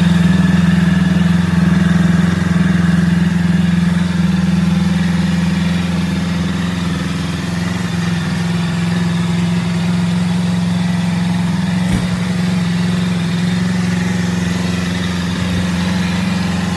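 Kawasaki Versys 650's parallel-twin engine idling steadily just after a cold start, warming up so the old oil drains well.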